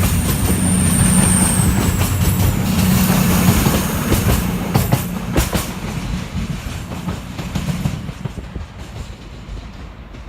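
A train running past and moving away, its low running noise fading steadily, with a high thin whine that drops off about one and a half seconds in and a few sharp wheel clicks over rail joints around the middle.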